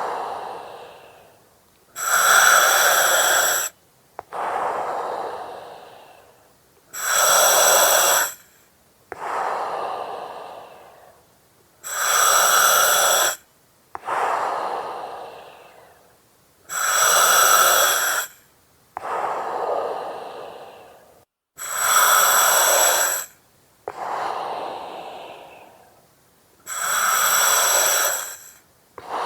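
Slow, regular breathing through an oxygen mask, about one breath every five seconds. Each cycle is a steady hiss with a whistling edge from the mask's regulator, cut off sharply, then a softer breath that fades away.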